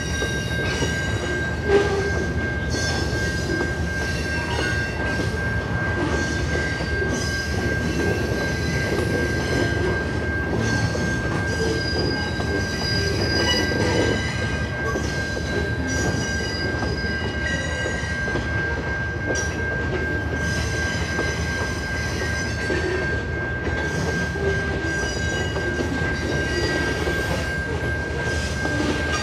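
Loaded freight cars (log-carrying bulkhead flatcars, then covered hoppers) rolling steadily through a grade crossing. There is a continuous low rumble from the wheels and trucks, high-pitched wheel squeal comes and goes, and a steady high tone runs throughout.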